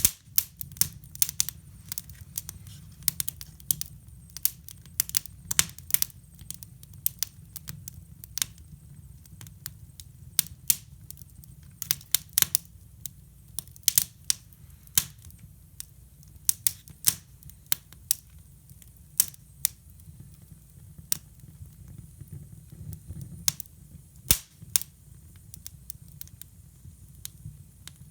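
Wood fire burning in a hybrid fireplace, crackling with irregular sharp pops at uneven intervals over a low steady rumble.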